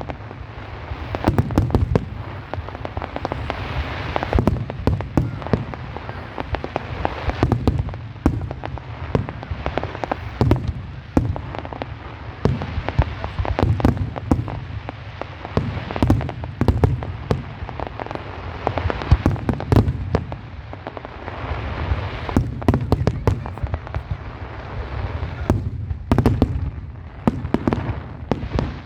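Fireworks display going off continuously: a dense barrage of deep booming shell bursts mixed with sharp cracks and crackling, with no let-up.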